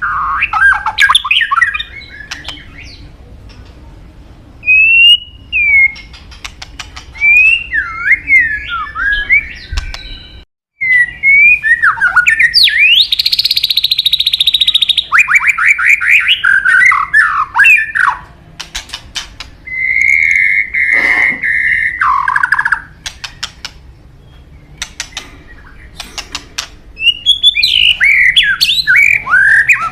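White-rumped shama (murai batu) singing a loud, varied song of whistled phrases with sliding notes, mixed with runs of rapid clicking notes and a harsh buzzy phrase. The song breaks off briefly about ten seconds in.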